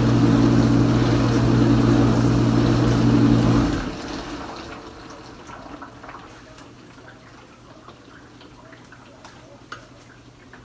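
Kenmore Ultra Wash 3 dishwasher's pump running with a steady hum and water rushing, then shutting off abruptly about four seconds in. After that, only a faint hum and scattered small drips and ticks remain inside the tub.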